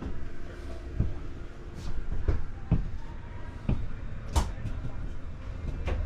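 Irregular knocks and thumps inside a fifth-wheel trailer, about six spread over a few seconds, the loudest about four and a half seconds in, over a low rumble. They fit cabinet doors and footsteps on the trailer floor.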